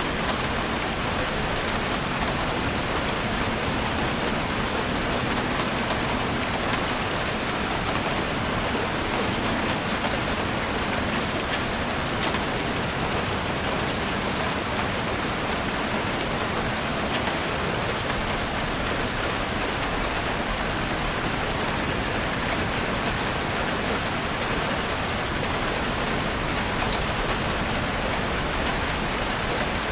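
Heavy rain drumming steadily on a roof, a dense patter of many small drop hits.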